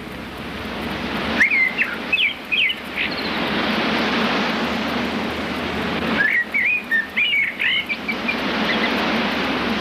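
Songbirds chirping in short runs of quick rising and falling whistles over a steady rushing noise. The noise swells over the first few seconds, and the whole sound changes abruptly about a second and a half in and again about six seconds in.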